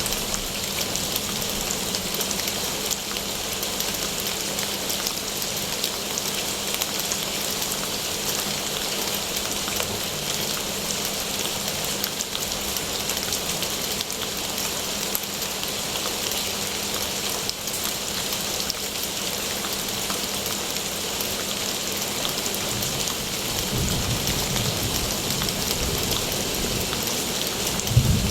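Steady rain falling, an even hiss with a low rumble building near the end.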